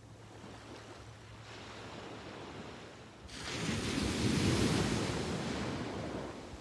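Sea waves breaking on a beach: a small wave washes in over the first couple of seconds, then a bigger wave breaks suddenly about three seconds in and surges up the shore, fading away near the end.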